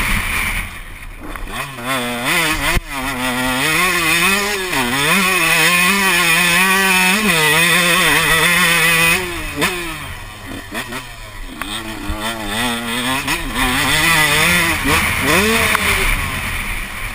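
Motocross bike engine revving hard under the rider's throttle: its pitch climbs and falls repeatedly, is held high through the middle, eases off, then picks up again near the end.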